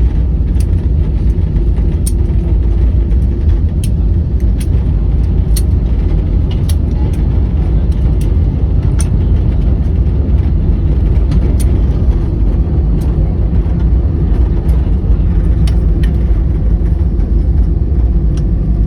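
Airliner cabin noise: a steady low rumble of the engines and airframe, with scattered brief ticks and rattles.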